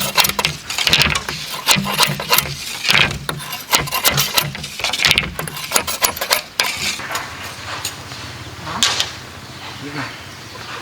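A quick run of knocks and clatter for about six seconds, then a steady low hum with only a few knocks from about seven seconds in.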